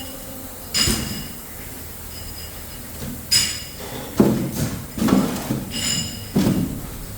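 Metal parts clinking against each other, each strike ringing briefly, three times, with duller knocks and clatter between about four and six and a half seconds in, over a steady workshop hum.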